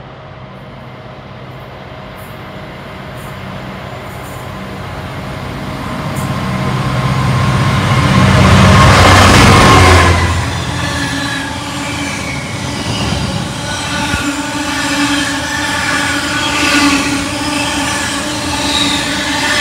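Class 66 diesel locomotive's two-stroke V12 engine growing louder as it approaches and passes at speed hauling an intermodal container train, loudest about nine to ten seconds in. After it has passed come the container wagons rolling by, with a steady high squeal from the wheels.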